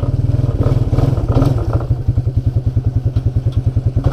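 ATV engine idling with a rapid, even chug, shortly after a cold start.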